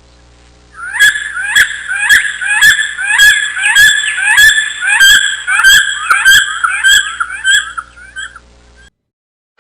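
A bird calling over and over in short, sharp, upward-flicking calls, about two a second, which fade out near the end.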